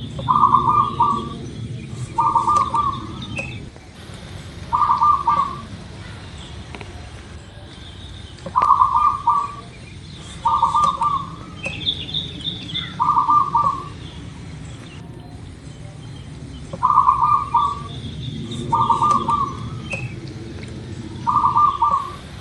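Zebra dove (perkutut) cooing: nine short phrases of rapid notes, coming in pairs and threes a couple of seconds apart. Fainter, higher chirps run underneath.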